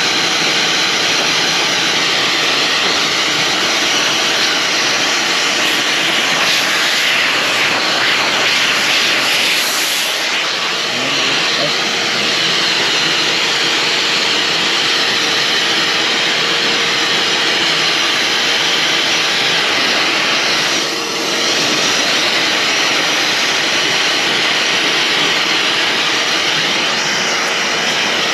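Handheld hair dryer running steadily: a loud rushing blow with a faint, even motor whine beneath it.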